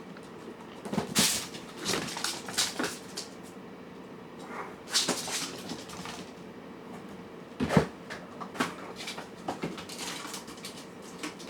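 Cats and kittens eating: scattered short clicks and knocks of food bowls and chewing, irregularly spaced, the loudest knocks about a second in, at about five seconds and just before eight seconds.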